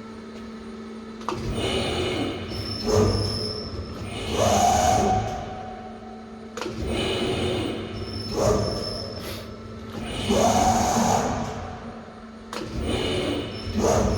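SAFAN SMK40-2050 servo-electric CNC press brake cycling, its ram stroking in a repeating cycle about every five to six seconds, each with a rising whine from the servo drive, over a steady hum.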